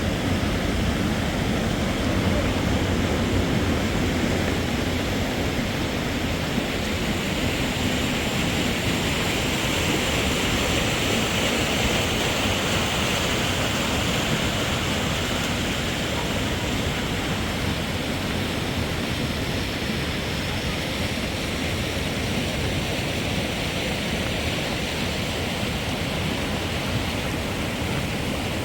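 Steady rushing of running water, an even noise with no pauses.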